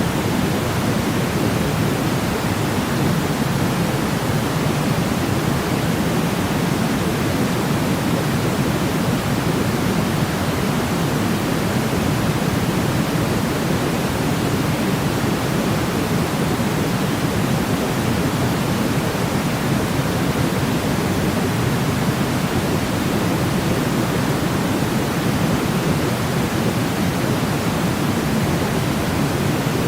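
Steady synthetic noise, heavier in the low end like pink noise: an even, unchanging hiss-rumble with no pauses or events.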